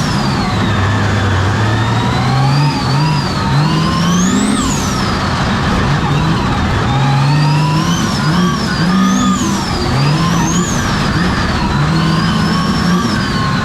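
Monster truck engine revving hard, climbing and dropping in pitch again and again, with a high whine that rises and falls with each rev.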